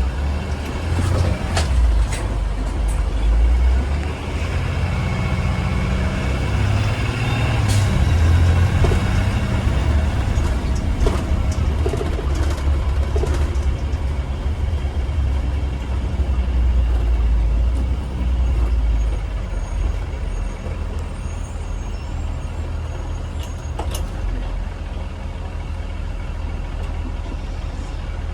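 Blue Bird Vision school bus under way, heard from inside: a low engine and road rumble that swells and eases, with scattered clicks and rattles.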